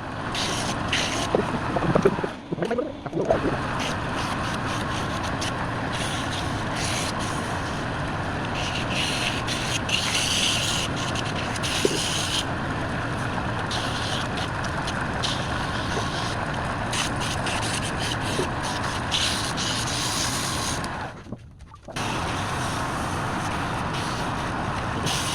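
Wood lathe running steadily while a turning tool cuts and scrapes the spinning wood. The sound drops out abruptly twice, briefly about two seconds in and for about a second near twenty-one seconds.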